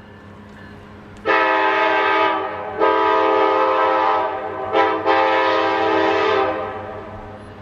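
A Norfolk Southern diesel locomotive's air horn sounding a chord in four blasts, long, long, short, long, over the steady low drone of the locomotive's diesel engines.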